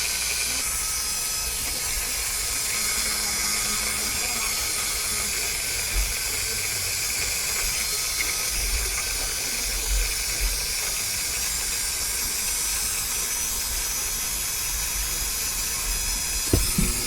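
Rotary tool spinning a 2 mm plastic rod against a plastic part, spin welding it: a steady hissing whir of the tool and the rod rubbing on the plastic.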